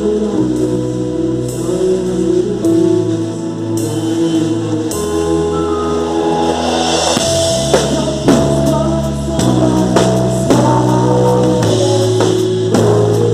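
Worship band music with sustained held chords; a cymbal swell builds and then drum kit hits come in about halfway through.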